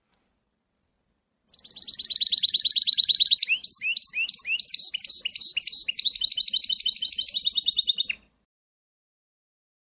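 A songbird singing one long song of rapid high trills that switches between several different trilled phrases, starting about a second and a half in and stopping abruptly about eight seconds in.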